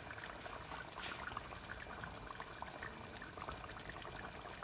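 Coconut curry chicken simmering in the pot: a soft, steady bubbling with many small irregular pops.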